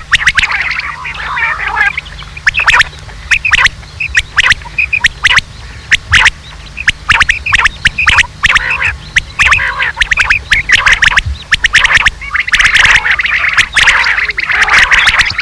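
Quail (batair) calling loudly: a rapid run of sharp, clicky notes and short chattering calls, repeated in bursts, over a steady low hum.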